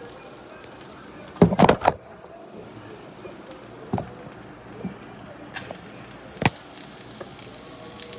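Plastic clicks and knocks from a mini portable air cooler being handled as it is plugged in and switched on: a quick cluster of knocks about a second and a half in, then single sharp clicks every second or so, over a faint steady noise.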